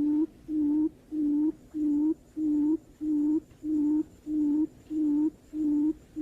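Barred buttonquail call: a steady, evenly spaced series of low hoots, about one and a half a second.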